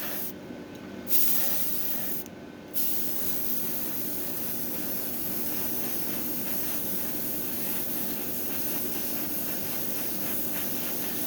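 Airbrush spraying automotive clear coat at low air pressure, its needle pulled back to let more fluid through: a steady hiss that drops out briefly twice in the first three seconds, then runs on unbroken. A steady hum of the spray booth's fans runs underneath.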